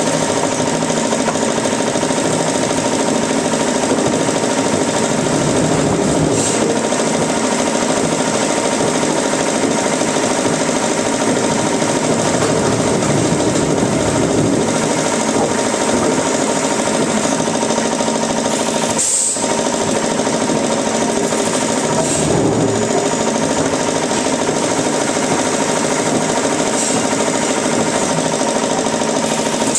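Wood-processing machinery running steadily with a constant mechanical noise and hum, broken by two brief dropouts a little past the middle.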